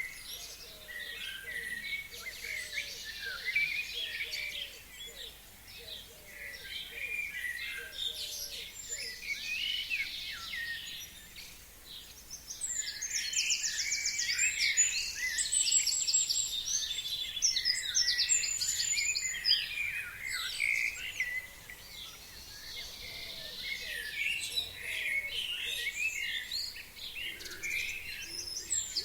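Several forest songbirds singing at once, a dense run of short chirps and whistles, with rapid high trills about halfway through.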